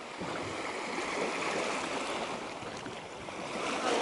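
Steady rush of moving water with wind noise.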